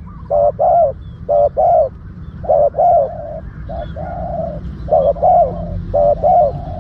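Spotted dove cooing: a run of about six paired coos, spaced roughly a second apart, over a steady low hum.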